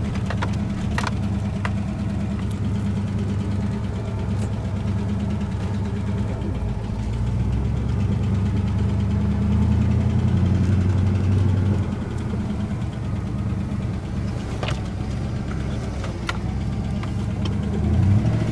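Ford Ranger's 302 (5.0) V8 running at low speed, with the rod knock of a failing connecting-rod bearing. The engine picks up about seven seconds in and eases back a few seconds later.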